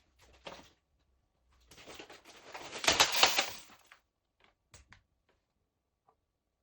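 Dry groats spilling and scattering, a dense rattle of many small hard grains lasting about two seconds, with a few faint clicks afterwards.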